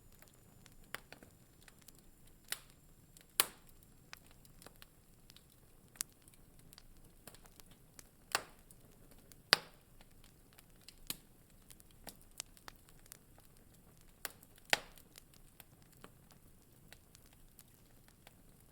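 Wood fire in a fireplace crackling: sharp pops and snaps at irregular intervals over a faint low hiss, the loudest pops about three seconds in and near the middle.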